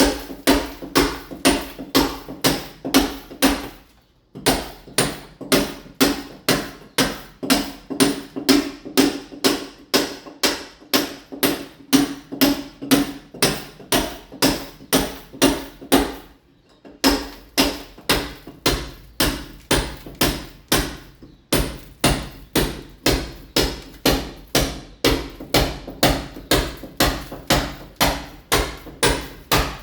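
Mason's hammer striking a masonry wall in a steady run of blows, about two to three a second, chipping the wall surface to key it for ceramic tile. The hammering stops briefly about four seconds in and again a little past the middle.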